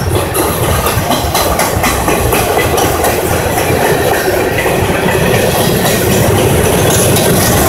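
Cars of a CSX mixed freight train rolling past at close range: a loud, steady rumble of steel wheels on the rails, with rapid clicks of the wheels over the track in the first few seconds.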